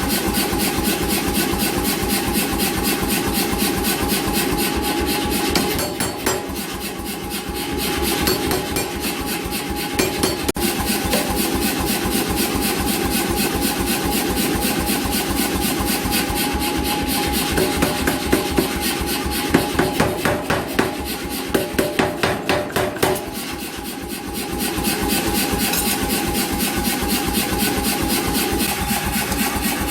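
An 88 lb C41 self-contained pneumatic power hammer running and striking in a rapid, steady train of blows, with a steady hum underneath. The blows ease off and get quieter twice.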